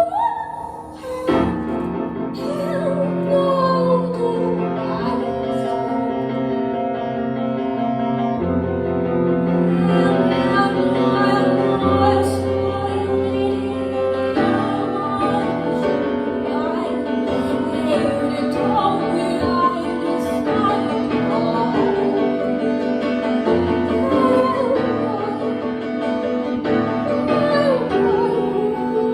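Piano playing a slow improvised melody, with a woman's voice singing long, wavering notes above it.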